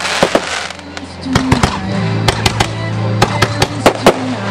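Aerial firework shells bursting in a rapid, irregular string of sharp bangs and pops, over music with long held notes. There is a short lull in the bangs about a second in.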